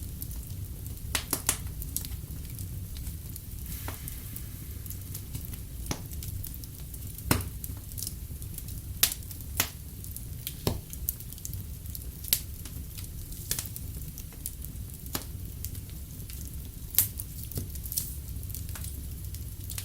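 Wood fire crackling in a fireplace, with sharp irregular pops about once a second over a steady low rumble.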